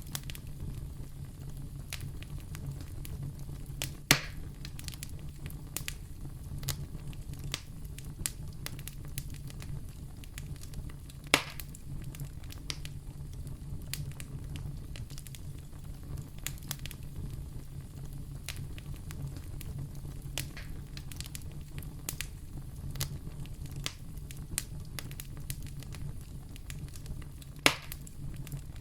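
Wood fire burning in a fireplace: a steady low rumble of flames with frequent small crackles, and three sharp, louder pops, about 4 and 11 seconds in and near the end.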